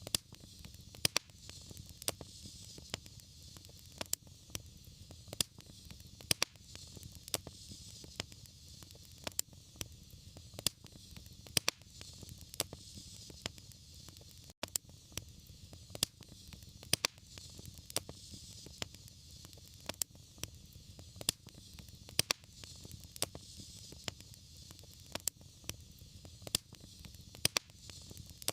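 Wood fire burning in a fireplace, crackling and popping with frequent sharp snaps at irregular intervals over a steady hiss and low rumble.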